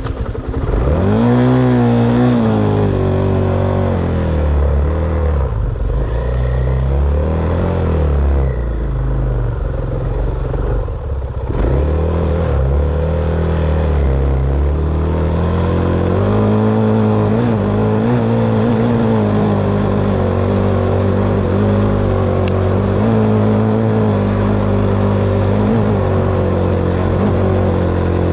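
Dirt bike engine revving up hard at the start, then rising and falling with the throttle through the first half and running steadier in the second half.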